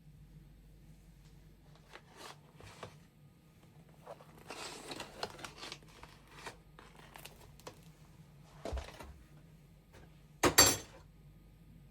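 Rustling and crinkling of something being handled, with scattered light clicks, and a loud double knock near the end.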